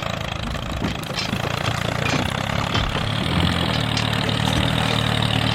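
Small engine of a homemade mini tractor running steadily at a constant speed.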